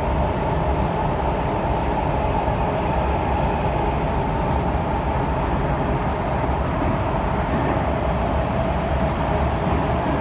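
Kawasaki C151 electric multiple unit running at steady speed, heard on board: a continuous rumble of wheels on track with a steady hum over it.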